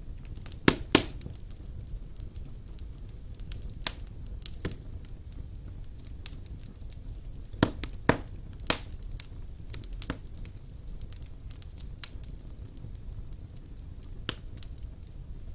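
Wood fire burning in a fireplace, crackling with irregular sharp pops over a low steady rumble. The loudest pops come about a second in and in a cluster around eight seconds.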